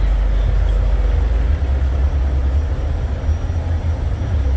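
Semi truck diesel engine idling: a steady, low rumble.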